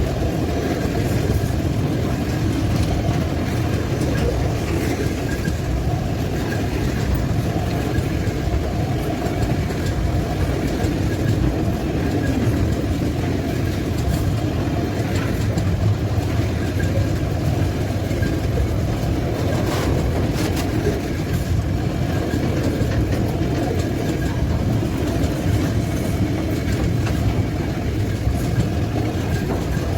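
Tank-car freight train rolling past, a steady low rumble of wheels on the rails with no breaks.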